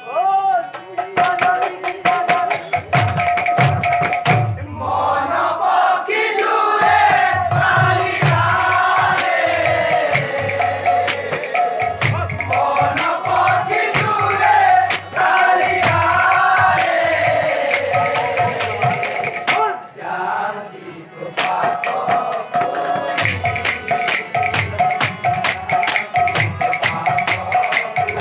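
Devotional kirtan music: a group sings a melody over a drum and jingling hand cymbals keeping a fast, steady beat. The singing stops about three-quarters of the way through, leaving the cymbals and drum with a held tone.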